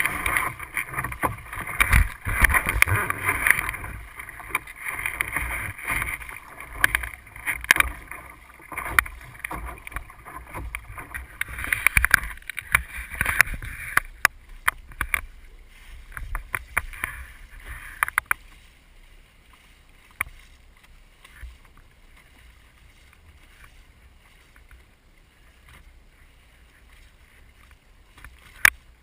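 Water splashing and slapping against the hull of a Sunfish sailboat under way, a busy rushing noise full of sharp splashes. About two-thirds of the way through it drops suddenly to a faint hiss, with one sharp splash near the end.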